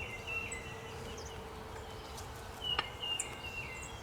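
A songbird singing runs of short notes that step down in pitch, twice, over the steady hum of honeybees at the opened nuc. One sharp click about three seconds in.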